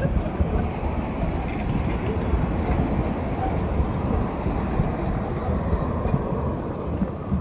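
Narrow-gauge train running on the rails, a steady rolling noise.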